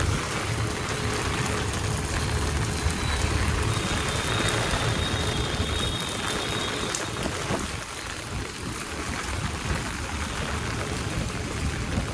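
Steady hiss of heavy rain falling, with a low rumble under it for the first few seconds.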